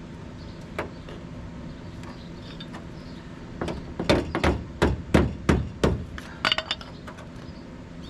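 Hammer blows on the MGB's sheet-metal fender: about a dozen sharp strikes over three seconds, starting about three and a half seconds in, the last quick few ringing.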